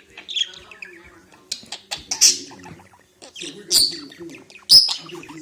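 Pet parrot chirping and squeaking in a series of short, sharp calls, the loudest about two seconds in, near four seconds and near the end, with quieter low chatter in between.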